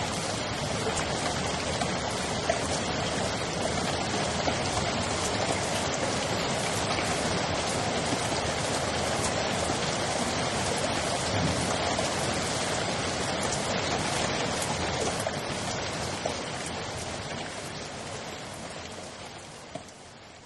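Steady rain falling, with a few sharper drop hits standing out now and then. It fades out over the last few seconds.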